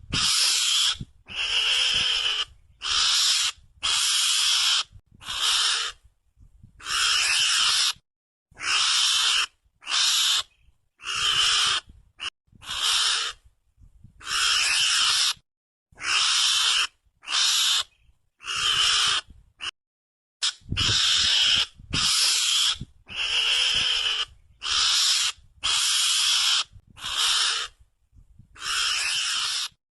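Mongoose (garangan) calls played as a hunting lure: a harsh, noisy cry repeated over and over, each call under a second long, coming about every second and a half with dead silence between.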